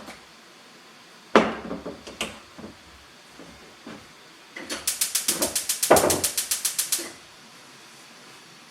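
A few knocks and handling sounds, then a fast, even run of about twenty sharp mechanical clicks lasting a couple of seconds that stops abruptly.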